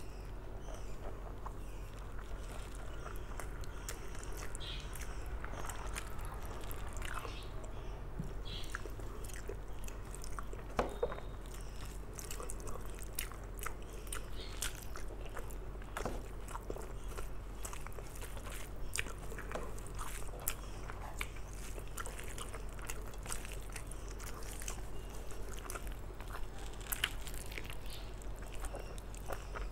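Close-miked eating sounds of a person eating rice and mutton curry by hand: chewing and wet mouth smacks, with many short irregular clicks scattered throughout, and fingers working the rice on the plate.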